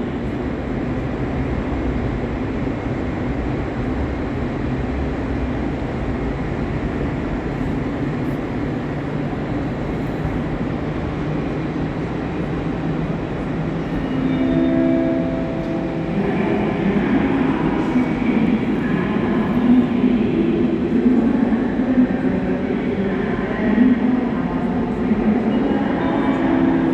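Train at a station platform: a steady rumble, then a brief held tone about halfway through. After that comes a busier mix of station sounds with voice-like chatter.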